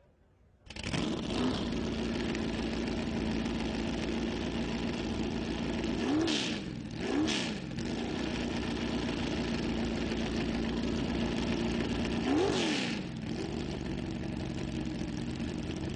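McLaren M20's 8.3-litre alloy Chevrolet V8 racing engine starting about a second in and idling, with three quick throttle blips that send the revs up and straight back down.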